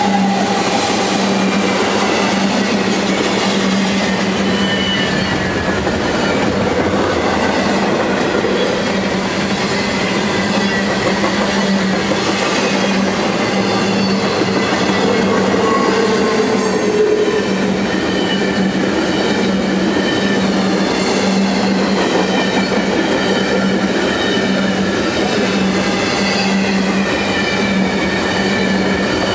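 Double-stack intermodal well cars rolling past at speed: a steady loud rumble of steel wheels on rail, with thin high squeals that drift in pitch and an occasional clack.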